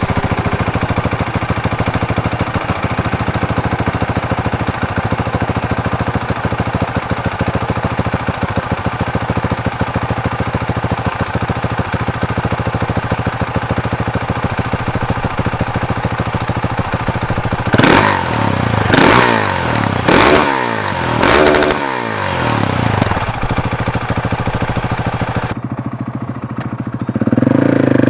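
Husqvarna 701 Supermoto's single-cylinder engine idling steadily through an Akrapovic exhaust with its baffles in. About 18 seconds in it is blipped four times in quick succession, the pitch rising and falling each time. Near the end the bike is heard pulling away under way.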